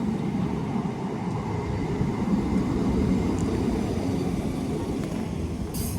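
Class 319 electric multiple unit pulling into the station: a steady low rumble of wheels on rail and running gear as it comes in, with a brief high hiss near the end.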